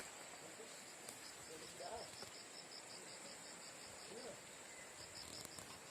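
Forest insects: a steady high-pitched drone with a quick, even train of chirps over it, faint.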